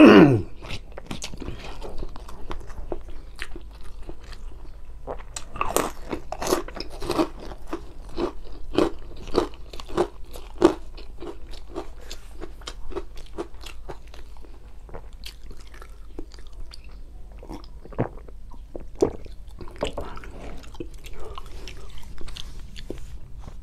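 Close-miked chewing and lip-smacking of a mouthful of nasi padang (rice with grilled fish eaten by hand): many irregular wet clicks and smacks, busiest in the first half. A short, loud sound falling in pitch comes right at the start.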